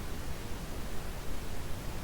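Computer-generated brown noise: a steady, even hiss strongest in the low end, with no tones or events.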